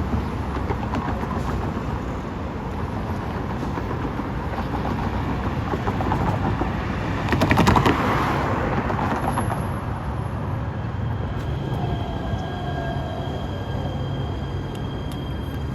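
Metro Rail train running on the rails, with a loud rattling clatter about halfway through and several steady high whining tones in the last few seconds.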